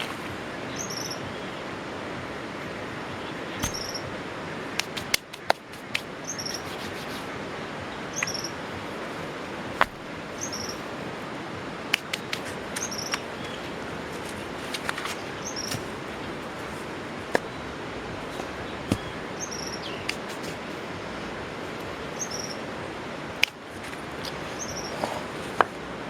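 Outdoor ambience: a steady hiss with scattered sharp cracks and pops, and a bird repeating a short, high double chirp about every two seconds.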